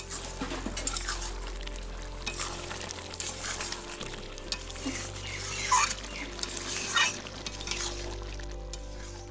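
A spatula stirring and scraping food frying in a pan, with sizzling and sharp scrapes against the pan, loudest a little before six seconds in and again at about seven seconds. Soft background music plays underneath.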